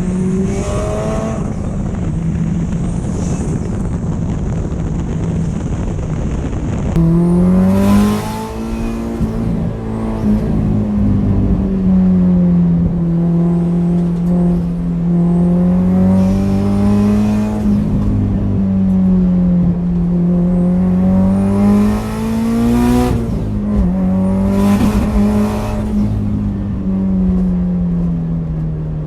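Turbocharged Subaru WRX flat-four through a loud straight-pipe exhaust, driven hard up a winding road. The revs rise and fall in long waves as it accelerates and slows through corners, surging sharply about seven seconds in, with a few short sharp bursts along the way.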